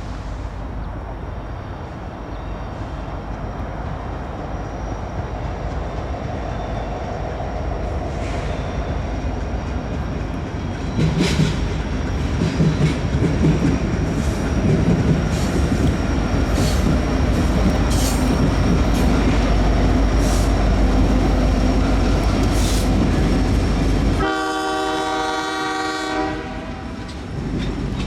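CPKC intermodal freight train coming through: diesel locomotive rumble and wheel clatter growing louder, then a long blast of the locomotive's chime air horn near the end.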